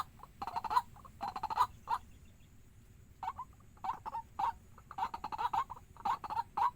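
Waterhen calling: runs of short, rapidly repeated calls, with a pause of about a second partway through before the calling starts again.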